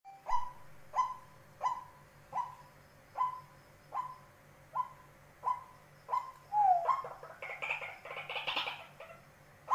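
White-breasted waterhen calling: a regular series of short calls about every 0.7 s, about nine in all. From about seven seconds in they give way to a faster, denser run of calls.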